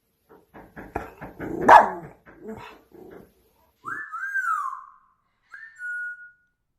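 A dog giving a run of short barks and yips, the loudest about two seconds in, then two high whines: one that rises and falls, and a shorter steady one near the end.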